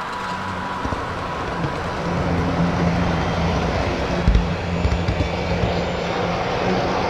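HO scale model train running on the layout: a steady motor hum with wheel and track noise, and a couple of short knocks.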